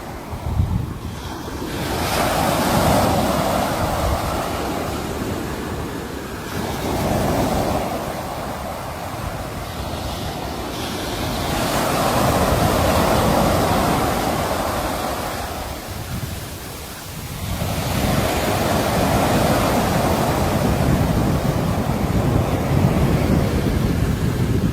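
Sea waves breaking on a shore: the surf swells and ebbs in a slow rhythm, a new wave rushing in about every five seconds.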